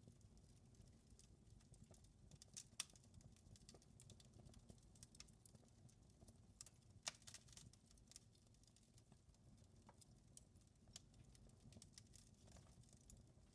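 Wood fire crackling faintly: irregular sharp pops and snaps, two louder ones about three and seven seconds in, over a low steady rumble.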